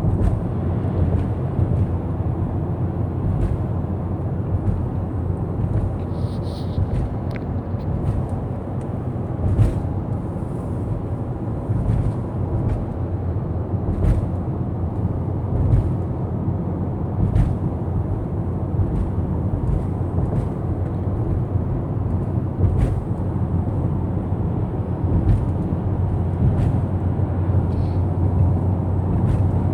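Steady road and engine noise of a moving car heard from inside the cabin, with scattered faint clicks.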